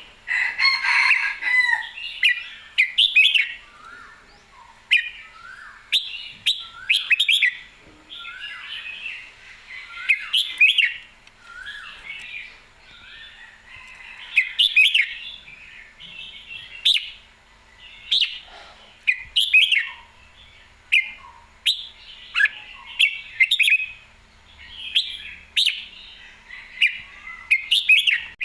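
Red-whiskered bulbul singing: short, bubbly whistled phrases that repeat every second or two, with sharp clicks among them.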